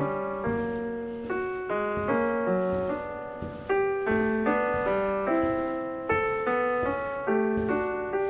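Background piano music: a calm melody of evenly paced notes, about two a second, each struck and fading away.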